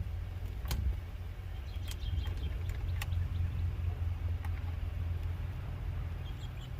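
Truck engine idling steadily as it jump-starts the boat's dead battery, with a few sharp clicks and knocks.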